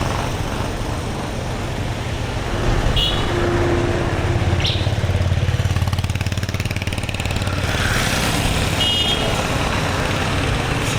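Town street traffic: motor vehicle engines running steadily as a low rumble, with short high beeps about three seconds in and again near the end.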